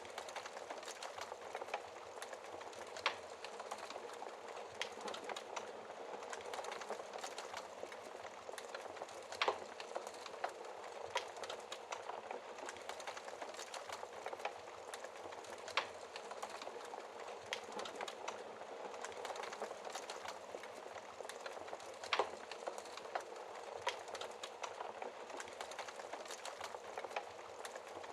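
Wood fire burning in a fireplace: a steady hiss with irregular crackles and a few louder pops.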